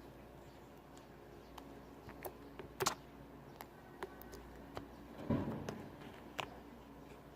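Slime being pressed and poked by hand, giving scattered sharp clicks and small pops, with a short burst of crackling squish about five seconds in.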